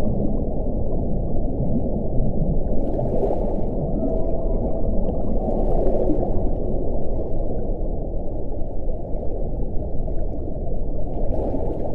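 Wind blowing steadily with a deep, low sound and faint passing moaning tones, with gusts adding a brief higher hiss about three seconds in, around six seconds, and near the end.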